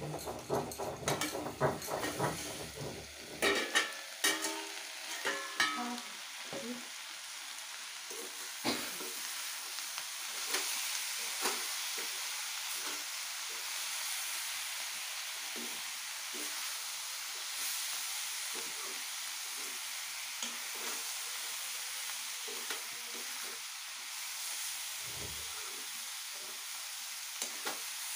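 Green beans and potatoes sizzling as they fry in a steel kadhai, stirred with a long metal ladle that scrapes the pan. In the first few seconds, metal clanks with a ringing tone as the steel lid and utensils knock together.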